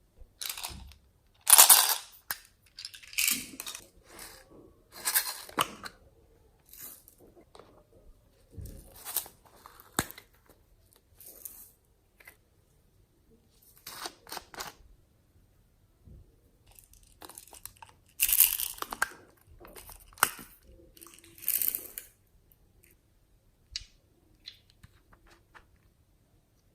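Slime being squished, stretched and mixed by hand: irregular bursts of crackly, squelching noise with short quiet gaps, loudest near the start and again about two-thirds of the way through.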